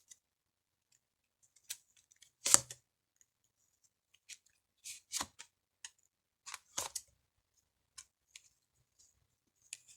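Tarot cards being drawn, flipped and laid down on a table: a scattered series of short, sharp card snaps and taps, some in quick pairs.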